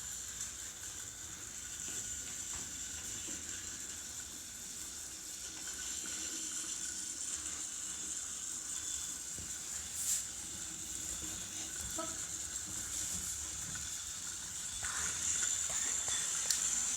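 Small battery-driven motors and gearboxes of toy train engines whirring steadily as they run, with a single click about ten seconds in.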